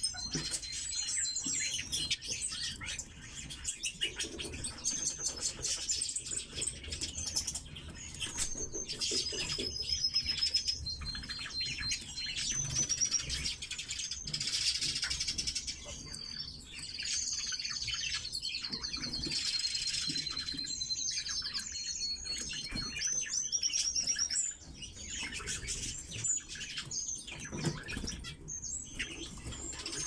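Red-billed leiothrix (Pekin robin) calling: high chirps and rapid trills, some held on one pitch, with scattered short clicks and rustles.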